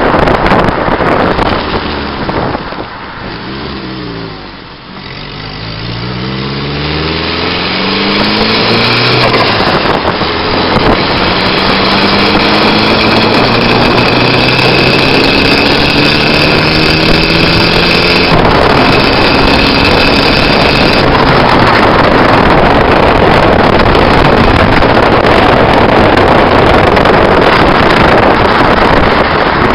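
A turbocharged Nissan SR20 four-cylinder engine slows with its pitch falling, then accelerates with the pitch climbing in two long pulls, with a break between them about ten seconds in. Loud wind rushing over the microphone runs under it and covers the engine from about two-thirds of the way through.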